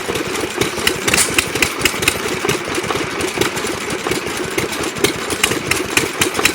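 Antique hit-and-miss gas engines running, a rapid pulsing exhaust beat with sharp clicks scattered through it.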